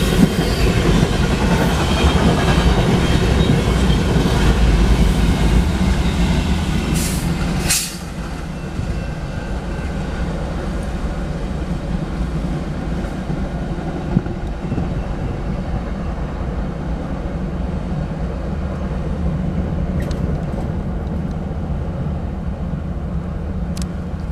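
BNSF intermodal freight train passing at speed, its wheels running on the rails with loud rolling noise and a couple of brief high squeals. About eight seconds in, the noise drops suddenly and a steadier, quieter rumble carries on.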